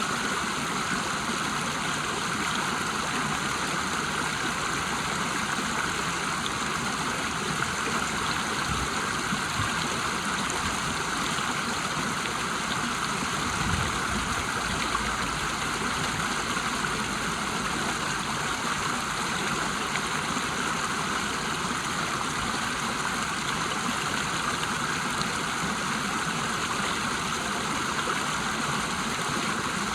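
River water rushing steadily over a small waterfall, an even unbroken roar of flowing water.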